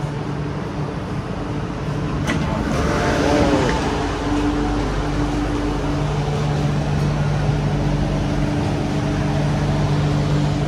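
Steady hum of an MTR Island Line Q-Train heard from inside the car, with a few fixed low tones, a single click about two seconds in, and a louder low hum from about halfway.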